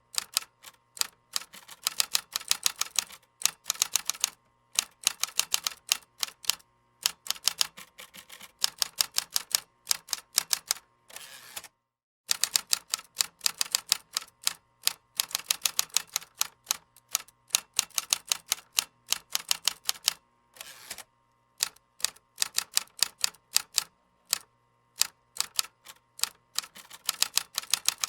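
Typing on a keyboard: rapid runs of sharp key clicks broken every second or two by short pauses, with a brief rougher rasp about halfway through and again about three-quarters of the way in.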